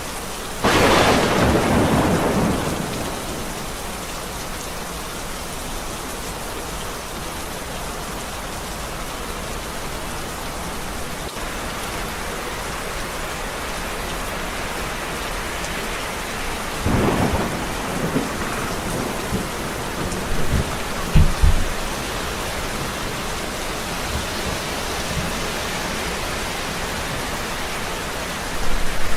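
Steady heavy rain with thunder: a sharp thunderclap just under a second in that rumbles away over a couple of seconds, then a second rolling peal with low booms more than halfway through.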